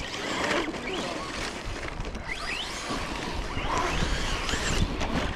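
Electric RC trucks driving over dirt and gravel: motor whine rising and falling with the throttle over a steady crunch and rush of tyres on loose ground.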